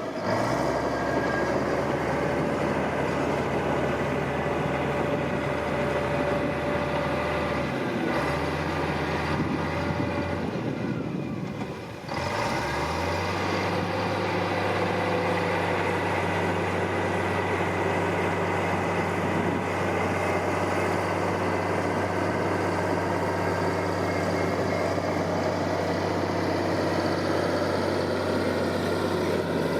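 Diesel engine of heavy earthmoving machinery running steadily under work, with a low drone. The sound dips briefly about twelve seconds in, then picks up again.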